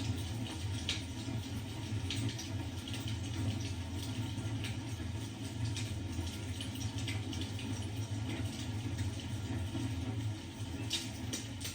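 Fireplace crackling: irregular snaps and pops over a steady low rumble.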